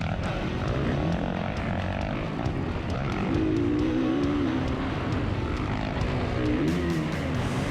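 Four-stroke motocross bike engine revving up and down under racing load, its pitch rising and falling with the throttle and gear changes.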